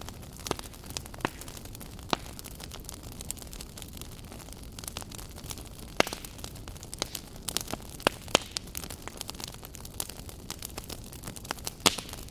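Wood fire in a fireplace crackling: a steady low hiss with irregular sharp pops and snaps, a few louder ones scattered through.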